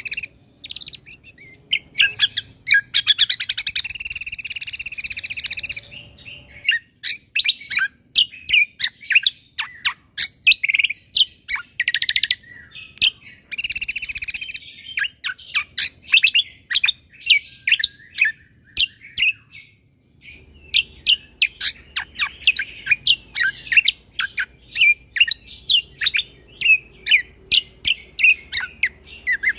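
Cucak kombo (kecial kombok) singing: fast, densely packed runs of sharp chips and rapid trills, broken by a couple of brief pauses.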